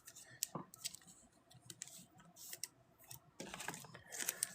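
Faint handling of trading cards: scattered light clicks and brief rustles as cards are slid and shuffled by hand, a little busier near the end.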